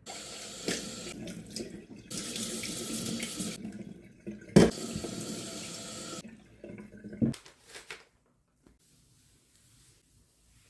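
Kitchen tap running into a sink in spells over about six seconds, with a sharp knock about four and a half seconds in and a few clicks as it stops; little is heard after that.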